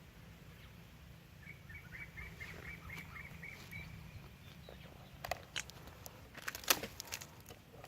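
A bird calls a quick run of about nine short, even notes, roughly four a second, over a low steady rumble. A few seconds later come several sharp clicks and knocks, one much louder than the rest.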